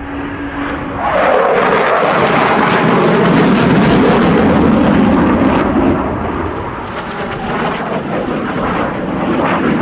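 Eurofighter Typhoon's twin jet engines, suddenly loud about a second in as the jet passes, with a crackling edge, then settling to a lower steady noise after about six seconds.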